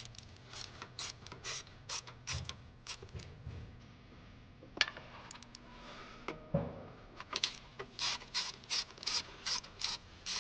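Hand work on a car's coolant valve fittings: short scraping and rubbing strokes, with a sharp click about five seconds in. The strokes come quicker and more regular near the end, about two to three a second.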